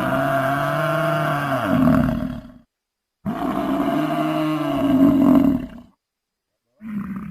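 A large animal's long, pitched call, played twice in the same form with a short silence between, each lasting between two and three seconds and dipping in pitch at the end; a short different sound begins near the end.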